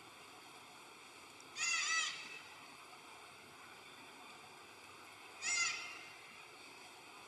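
A baby monkey crying out twice: short, high, wavering calls about four seconds apart, over a faint steady hiss.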